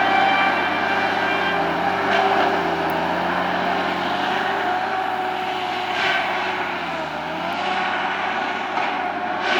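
Tree-removal power equipment engine running steadily at high speed, its pitch dipping briefly several times as it comes under load, with a couple of sharp cracks.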